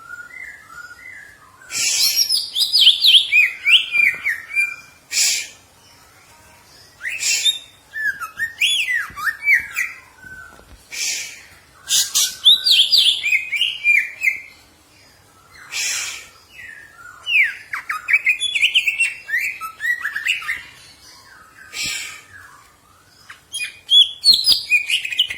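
Cucak ijo (green leafbird) singing in bursts of rapid, varied warbling phrases mixed with short harsh, rasping notes, the phrases separated by pauses of a second or two.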